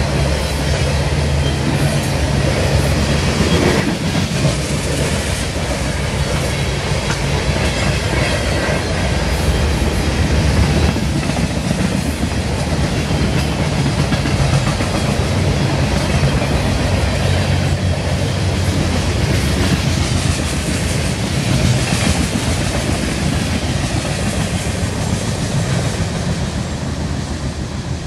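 Freight train of boxcars and refrigerated boxcars rolling past at close range, its wheels clicking over the rail joints, with a steady rumble and rattle of the cars. The sound eases off right at the end as the last cars go by.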